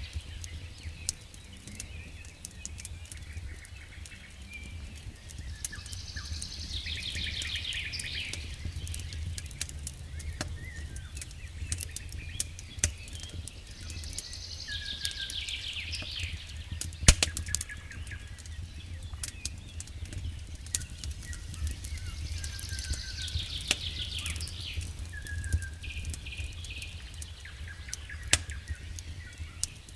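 Campfire crackling with scattered small pops and one sharp pop about 17 seconds in, over a low steady rumble. A songbird repeats a descending trilled phrase about every eight or nine seconds.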